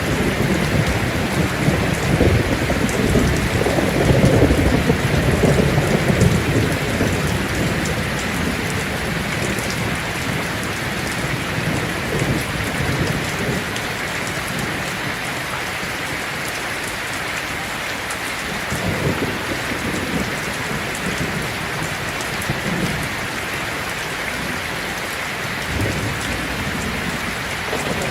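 Heavy rain falling on a tin roof, steady throughout, with thunder rumbling low and loudest in the first several seconds, and fainter rumbles twice later on.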